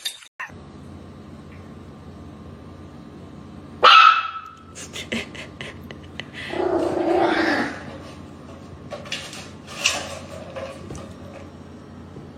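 A dog barking: one sharp, loud bark about four seconds in, then a longer, rougher sound from the dog around seven seconds and a few sharp knocks, over a steady low hum.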